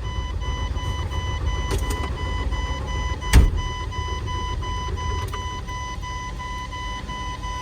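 Diesel truck engine starting and running with an even, pulsing rumble, while a dash warning chime beeps in a steady on-off pattern; one sharp thump about three and a half seconds in. The engine is losing fuel prime, which the driver puts down to a loose fitting somewhere.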